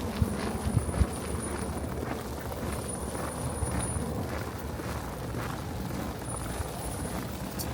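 Blizzard wind buffeting the microphone as a steady low rumble, with a few thumps in the first second and faint crunching footsteps in snow.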